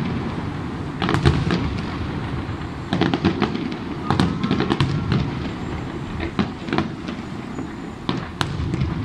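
Fireworks display: aerial shells bursting in quick clusters of sharp bangs and crackles over a continuous low rumble.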